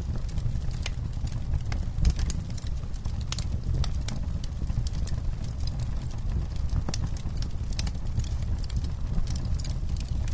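Wood campfire burning: frequent, irregular sharp crackles and pops over a low, steady rumble.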